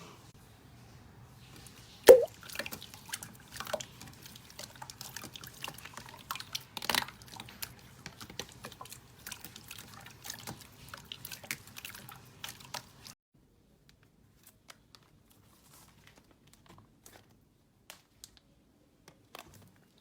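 Slime being squeezed and poked by hand: wet, sticky clicks and pops, with one loud pop about two seconds in. The sound stops suddenly about two-thirds of the way through, leaving only a few faint clicks.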